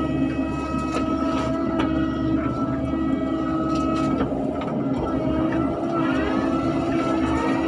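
Excavator running steadily with a constant whine and a few sharp knocks. Near the end the whine bends up and down in pitch.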